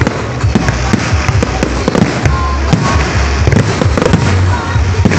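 Fireworks display: a rapid, irregular run of bangs and crackling pops from shells and firecrackers going off one after another.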